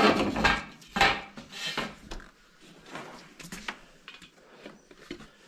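Chick brooder heat plate being moved and set down: several knocks and clatters in the first two seconds, then quieter scattered clicks and rustling.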